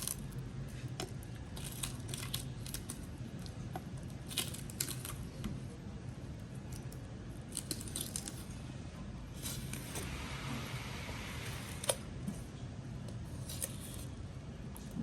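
Scattered sharp clicks and scraping of metal kitchen tools working on fish, with a longer scraping stretch about two-thirds of the way in and a steady low hum underneath.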